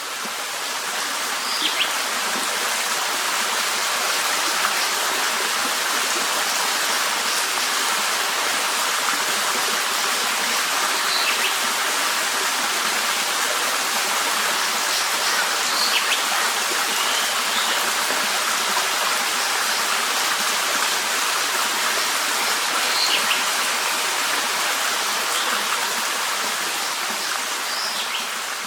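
Steady rush of running water with a few short, high chirps now and then. The water noise swells up gently at the start and dies away at the end.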